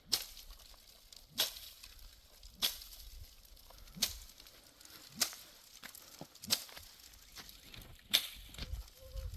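A run of sharp, hard knocks, about seven of them, evenly spaced a little over a second apart.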